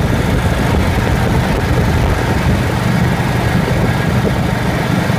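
Motorcycle engine running steadily at cruising speed, a low pulsing rumble that holds even throughout.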